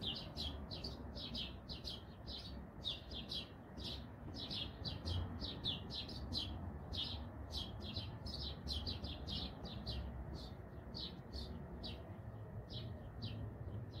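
Small birds chirping: a steady series of short, high chirps, about two or three a second, thinning out near the end, over a faint low background rumble.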